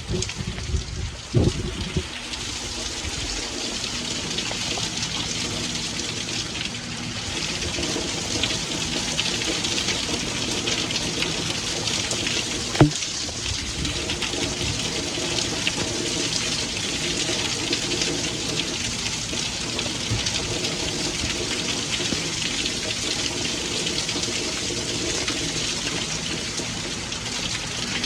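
Steady rain falling, a dense patter of drops, with a faint steady low hum underneath. A single sharp click about thirteen seconds in.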